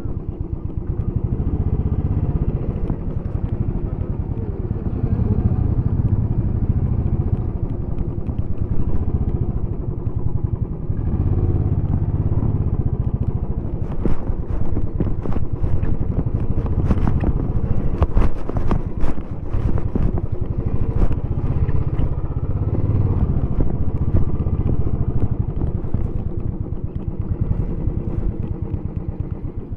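Royal Enfield Bullet 350X's single-cylinder engine running through its stock exhaust on the move, the engine speed rising and falling as the bike accelerates and eases off. Around the middle come a series of sharp clicks and rattles.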